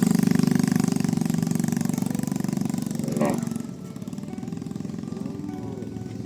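A small engine running steadily, then fading away about three and a half seconds in, leaving a quieter background.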